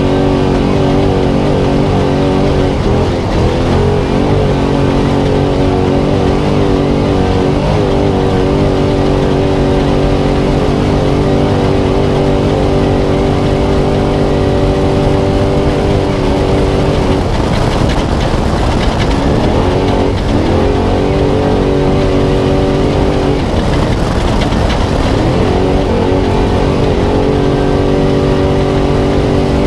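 Spec Trophy Truck's LS3 V8 engine running hard at racing speed, heard onboard: a steady, high-revving engine note that dips and climbs back a few times as the throttle is lifted and reapplied.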